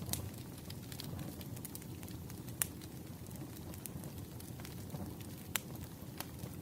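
Wood fire crackling: a steady low rumble with sharp, irregular pops, the loudest about two and a half seconds in and another near five and a half seconds.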